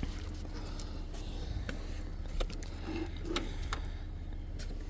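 A steady low hum with scattered small clicks and taps from handling objects.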